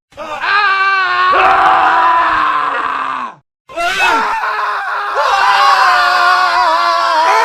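Men screaming, one scream after another as separate clips cut together, with a brief silent gap a little before halfway through.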